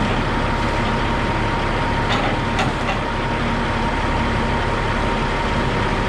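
Heavy equipment engine running steadily, with a few short knocks about two seconds in.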